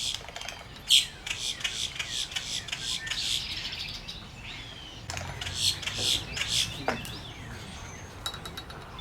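Birds of a wading-bird nesting colony calling: a dense chatter of short, high chirps and squawks, the loudest about a second in, thinning out near the end.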